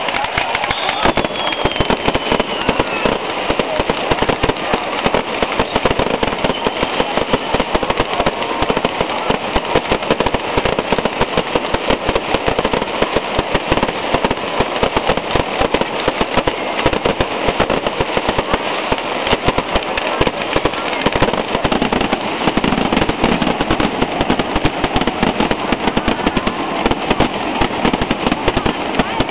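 Fireworks display: a dense, unbroken barrage of rapid bangs and crackling, with a falling whistle about a second in.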